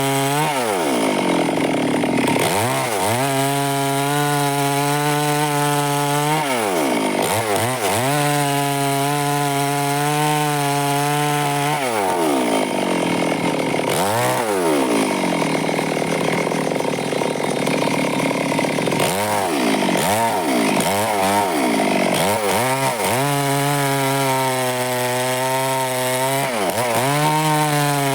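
Stihl chainsaw running at high speed while cutting wood, its engine pitch dropping and climbing back several times.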